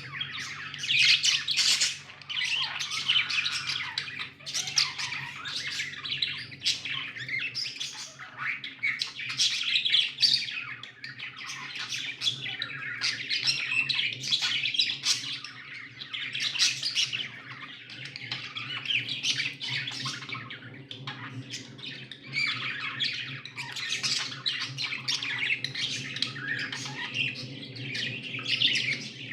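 Budgerigars chattering and squawking nonstop, a dense mix of short chirps and harsher squawks.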